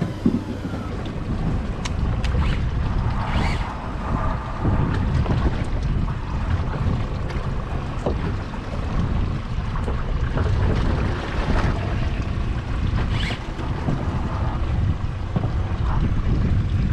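Wind buffeting the microphone aboard a small fishing boat at sea: a steady, gusty low rumble with the sea around the hull, broken by a few brief clicks and knocks.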